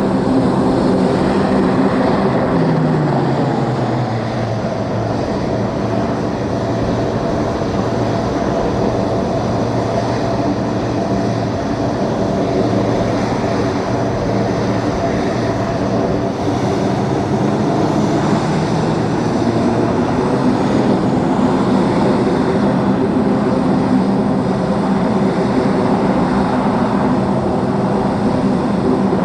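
Aircraft engines running loud and steady, with a hum of several tones; one tone drops in pitch about three seconds in.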